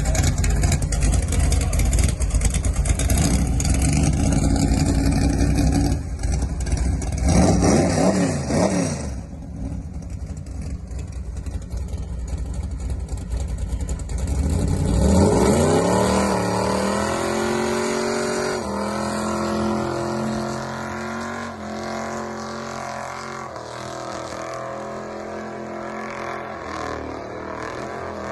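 Big-block methanol engine revving hard during a burnout, loud and continuous for the first six seconds, with the revs swinging up and down around seven to nine seconds in. The engine then eases off, and from about fifteen seconds a rising engine note settles into a steadier run.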